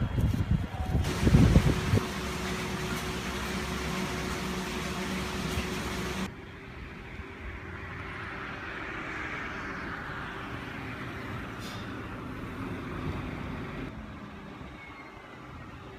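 Wind gusts buffeting the microphone with heavy low thumps for the first two seconds, then a steady outdoor hiss of wind and distant rail-yard noise that shifts abruptly twice.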